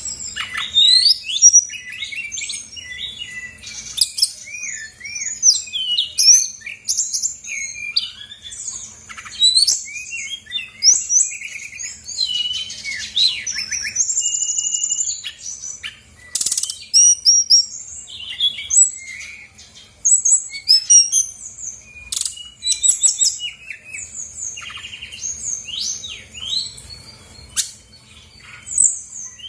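Brown-chested jungle flycatcher singing a long, fast, varied song of high chirps, whistled slurs and trills with only brief pauses, working through its repertoire of mimicked phrases.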